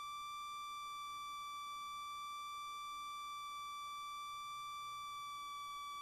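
Steady high-pitched electrical whine, a single held tone with many overtones, carried in the light aircraft's intercom audio, with the engine itself barely heard beneath it.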